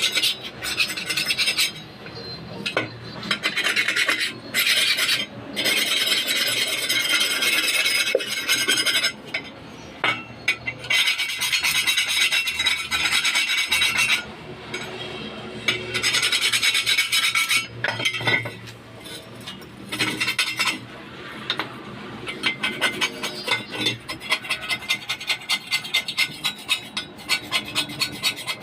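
Repeated rasping, scraping strokes, in bursts with short pauses, during truck brake shoe work. Near the end they settle into an even rhythm of about two strokes a second.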